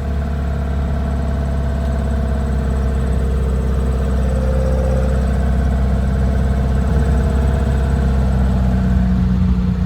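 Air-cooled 1800cc VW flat-four engine in a 1957 Beetle running steadily under way, a little louder in the last few seconds. Its throttle is sticking a little.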